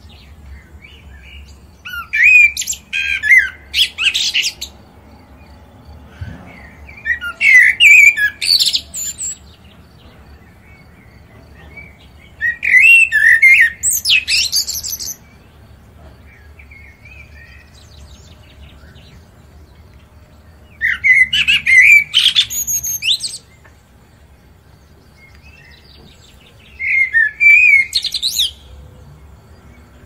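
A bird singing five phrases of rapid, varied chirping notes, each about two to three seconds long, with pauses of several seconds between them.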